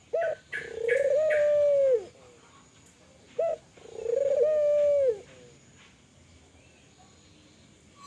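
Kelantan tekukur (spotted dove) cooing twice, about three seconds apart. Each call is a short note followed by a long held coo that drops in pitch at its end.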